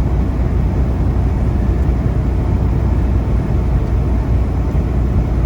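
Steady low drone of a semi truck's diesel engine and road noise, heard inside the cab while cruising at highway speed.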